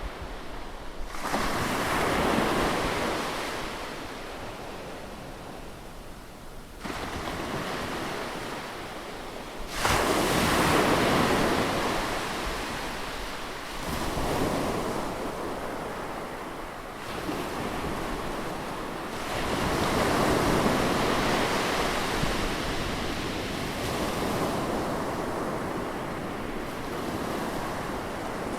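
Ocean waves breaking on a beach, each surge a few seconds apart rising in a rush of surf and washing out, with some wind on the microphone.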